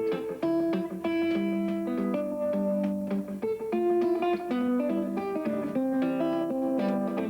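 Solo guitar playing a thumbpicked instrumental in the Muhlenberg style: a steady picked bass line under a plucked melody.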